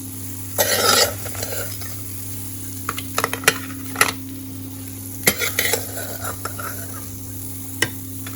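Bread cubes sizzling as they fry in oil, stirred with a spoon that clinks against the pan several times, with a brief louder scrape about a second in.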